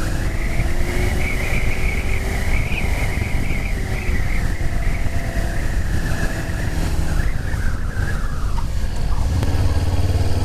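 Motorcycle engine running under way, with a steady low rumble and a wavering whine that falls away near the end as the bike slows.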